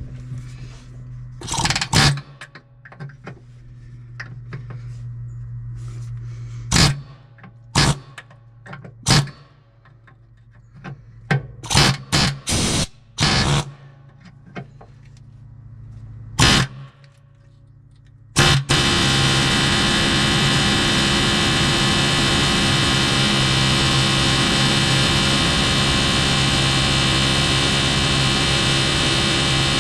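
Pneumatic chisel hammer (air hammer) hammering at welded-on nuts: about ten short bursts over a low hum, then run without a break for the last eleven seconds or so, cutting into the weld.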